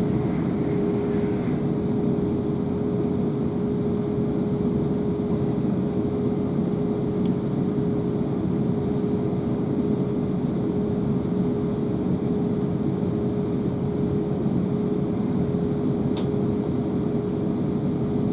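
Inside a Class 444 electric multiple unit running at steady speed: a constant rumble of the wheels on the rails with a steady hum, and a faint click near the end.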